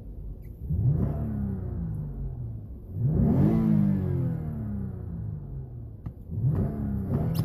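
Toyota Crown Athlete (210 series) 3.5 L V6 with stock exhaust, revved three times: each time the engine note climbs quickly, then sinks back towards idle. The middle rev is the loudest and highest.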